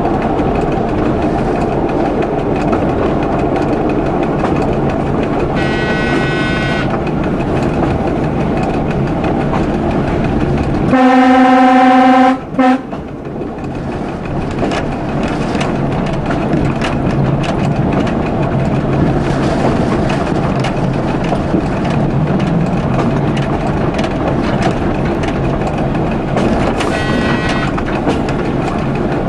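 Local passenger train running steadily on the rails, heard from the driver's cab, with one loud horn blast about eleven seconds in that lasts well over a second and ends with a short clipped note. Fainter, higher short tones sound briefly twice, near a quarter of the way in and near the end.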